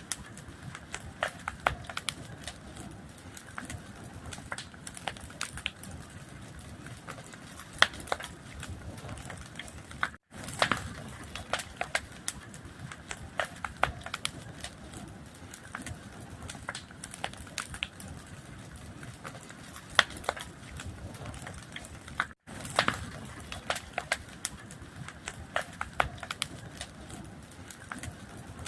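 Fire crackling: a steady low hiss with frequent sharp pops and snaps of varying loudness. The sound cuts out for a split second twice, about 10 and 22 seconds in.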